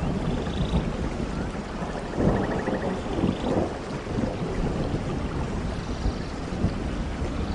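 Steady rainfall with thunder rumbling low underneath, swelling a little over two seconds in.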